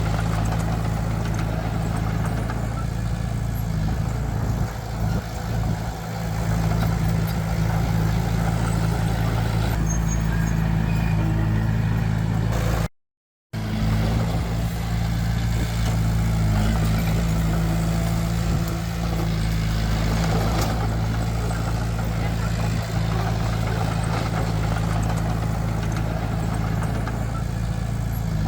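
Heavy diesel engine of construction machinery running steadily at a constant pitch. The sound cuts out completely for about half a second a little before the middle, then resumes the same.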